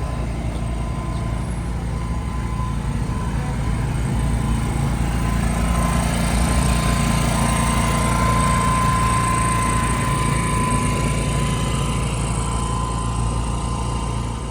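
A car engine running steadily under way, with a thin steady whine above it. It grows a little louder through the middle and cuts off abruptly at the end.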